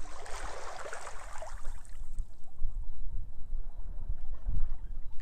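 A wave washing up the beach, its wash swelling then fading out by about two seconds in, over steady gusty wind buffeting the microphone with a low rumble.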